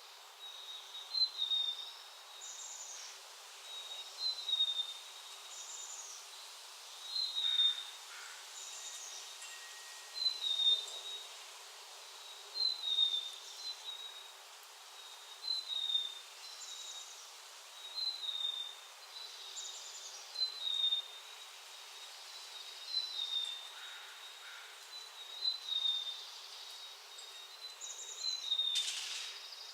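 A backyard bird repeating a short high call note about every second and a half, with other songbird calls scattered in between and a louder brief sound near the end.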